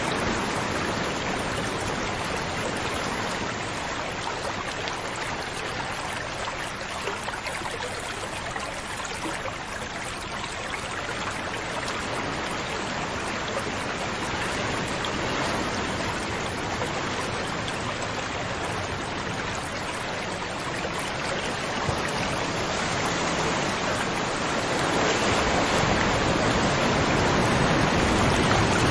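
Flowing water rushing steadily, growing a little louder near the end.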